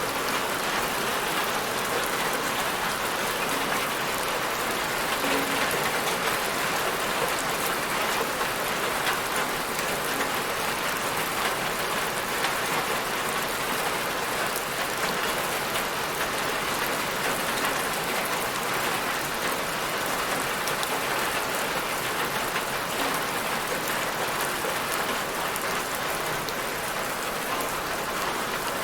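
Steady rain falling and pattering on a surface, an even hiss dense with small drop hits.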